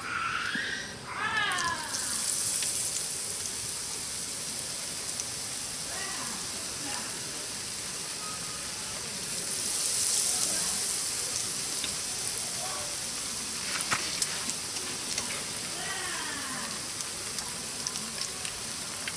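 Food sizzling steadily as it fries at a camp cook-out, a constant high hiss that swells for a moment in the middle. A few short falling chirps come through about a second in and again near the end.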